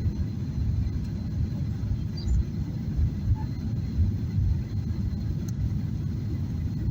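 Steady low rumble of cabin noise inside a Boeing 737-800 on its approach, the sound of its CFM56-7B engines and the airflow over the fuselage.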